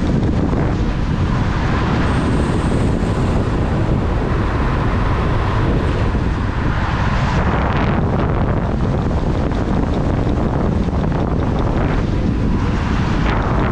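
Wind buffeting the microphone: a loud, steady low rumble with a hiss on top.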